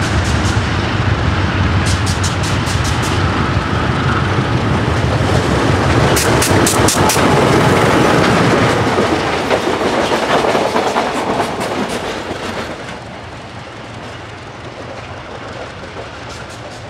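Two Transnet Class 36 diesel locomotives passing close with a freight train: a low diesel engine drone, with the wheels clicking over rail joints in quick clusters. The sound is loudest as the locomotives go by, then drops about three-quarters through as the wagons and guard van roll past and away.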